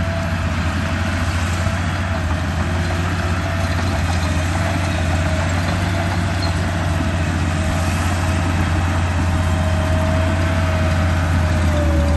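A steady, loud engine drone like an idling truck, with a thin whine above it that slowly falls in pitch.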